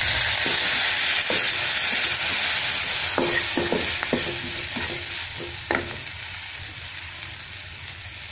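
Onion-and-spice masala sizzling in hot oil in a nonstick kadai while a wooden spatula stirs it. Several short scrapes and knocks of the spatula against the pan come between about three and six seconds in, and the sizzle slowly dies down toward the end.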